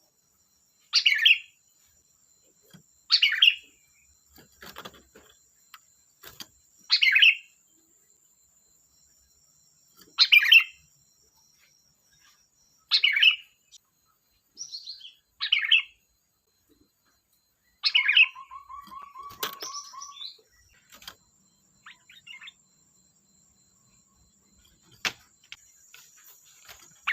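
Sooty-headed bulbul calling: short, loud chirped phrases repeated every two to three seconds, about eight in all. About two-thirds of the way in, one phrase runs on into a quick rattling series of lower notes.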